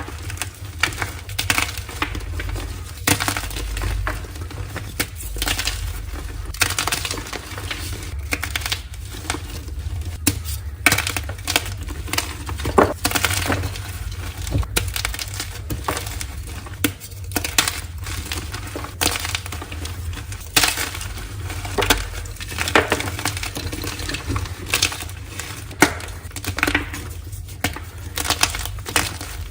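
Blocks of dyed gym chalk being crushed, crumbling with a continuous run of irregular crisp crunches and sharp cracks.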